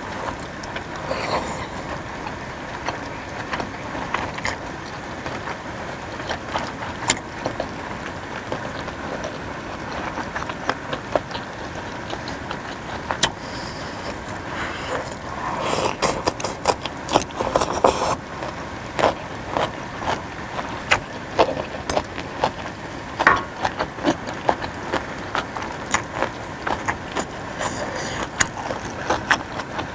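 Close-up eating of noodle soup with beef: chewing and mouth sounds with frequent small sharp clicks, busiest about halfway through, over a steady background hiss.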